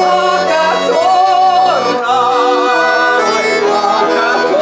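Bayan (Russian button accordion) playing a folk-song accompaniment, with a woman's voice singing long held, wavering notes over it.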